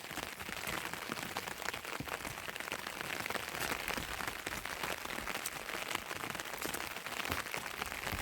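Steady rain falling, a dense patter of raindrops.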